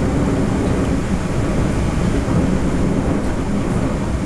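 Steady low rumble of a TEMU1000 electric multiple unit running at speed, heard from inside the passenger car.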